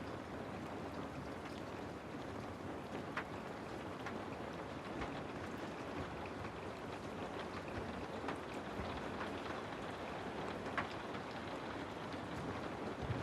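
Steady rain falling, an even wash of noise with a few sharper single drops standing out, one about three seconds in and another near the end.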